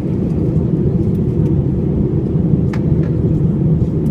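Airbus A320 cabin noise: a loud, steady rumble of the engines and rushing air, with a light click from the cabin about two-thirds of the way through.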